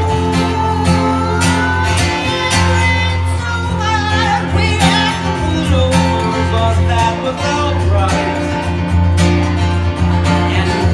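Acoustic guitar music played live: steady strummed chords with a melody line over them.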